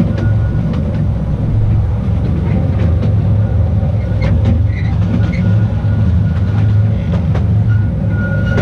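A small narrow-gauge electric mountain train running, heard from on board. A steady low rumble of the cars on the track carries irregular sharp clicks of the wheels over rail joints, and a thin high wheel squeal comes and goes.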